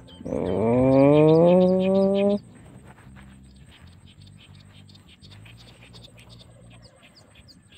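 Small birds chirping over open water, short high calls repeating throughout. Near the start a loud drawn-out tone rises in pitch for about a second, holds, then cuts off abruptly about two seconds later.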